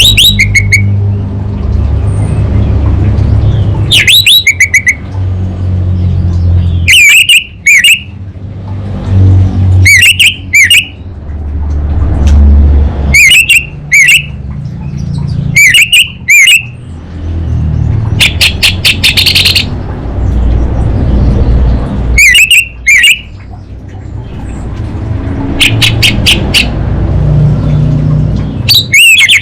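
Orange-headed thrush calling: loud, sharp two-note calls repeated every two to four seconds, and twice a fast rattling run of notes. A steady low rumble runs underneath.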